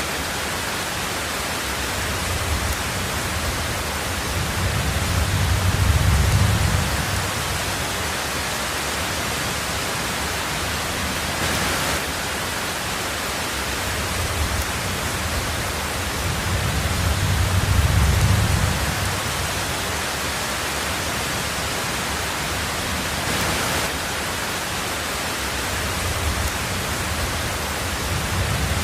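Heavy rain on a tin roof, a dense steady hiss. Low rumbles of thunder swell and fade twice, about six and eighteen seconds in, and build again near the end.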